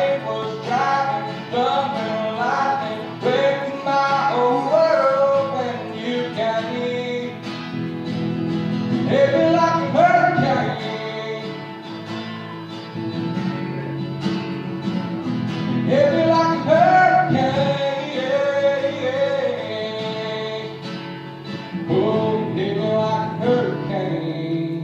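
Country song performed by a male singer over acoustic guitar, sung in long held phrases.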